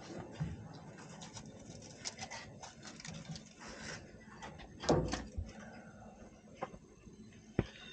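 Faint handling noises of hands-on wiring work: scattered small clicks and taps, with a louder knock about five seconds in and a sharp click near the end.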